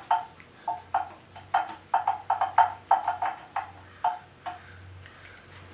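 Metal hand tool working bolts on a Cummins diesel block, with a run of quick, irregular ringing metallic strokes, about two or three a second, that stops about four and a half seconds in. A faint steady low hum runs underneath.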